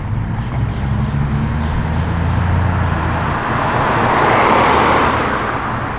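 A car's engine running at low revs, then a rush of engine and exhaust noise that swells to a peak about four and a half seconds in and fades as a car drives past. A fast, light ticking is heard in the first second and a half.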